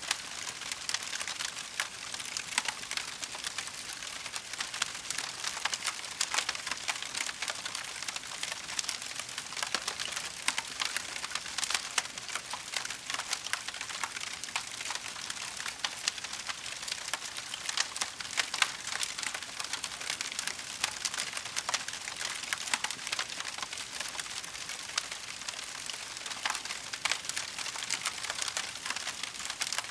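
Wood fire in a fireplace crackling steadily, with a dense scatter of small snaps and pops and an occasional louder crack.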